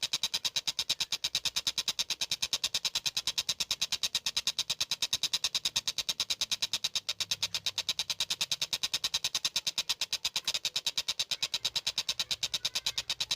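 Tengkek buto kingfisher calling a rapid, machine-like chatter of sharp notes at about nine a second, keeping an even rhythm like a train's clatter.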